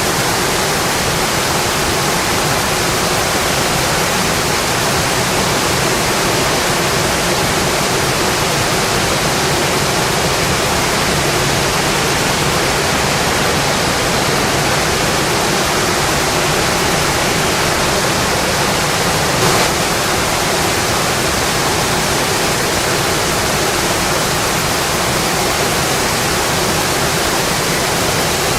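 Steady rainfall, an even hiss without change, with one brief tap about two-thirds of the way through.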